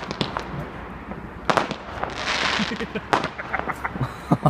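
Fireworks going off all around: irregular sharp bangs and cracks at varying distances, with a quick run of small crackling pops near the end.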